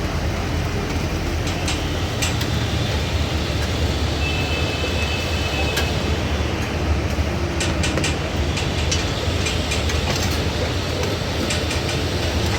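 Steady low rumble of machinery or traffic with scattered sharp metallic clicks and clinks. A brief thin high tone comes in about four seconds in.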